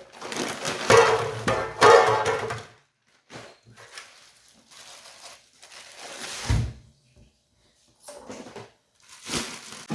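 Rustling and handling noises in loud bursts over the first three seconds, then scattered quieter handling sounds and a single dull thump about six and a half seconds in.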